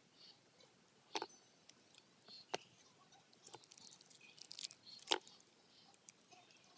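A few sharp clicks and taps, the loudest about five seconds in, with faint rustling between them: chocolate bars being cut and handled.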